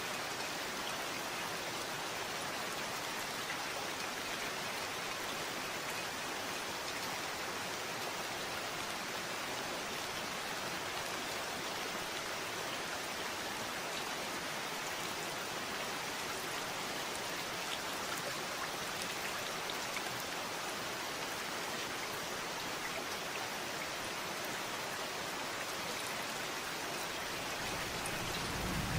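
Steady rainfall, an even hiss with faint scattered drop ticks. Near the end a low rumble of thunder begins to swell.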